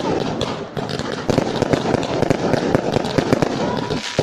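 Fireworks display going off: a dense, rapid crackle of many bangs and pops, several a second, with a faint whistle near the end.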